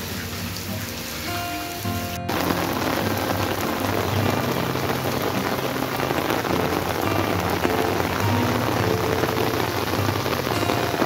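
Heavy rain falling, a dense steady hiss, with background music under it. An abrupt cut about two seconds in, after which the rain is louder.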